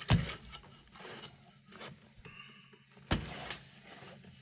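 Hand work on a computer power supply's case as it is taken apart: a sharp knock near the start and another about three seconds later, with scraping and rubbing between them.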